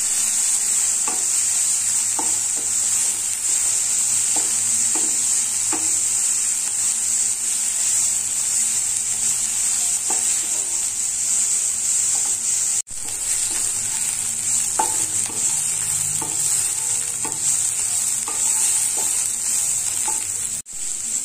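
Grated bottle gourd sizzling as it fries in ghee over medium heat in a nonstick kadhai, with a wooden spatula scraping and tapping the pan about once a second as it is stirred. The sound drops out briefly twice, once about halfway through and once near the end.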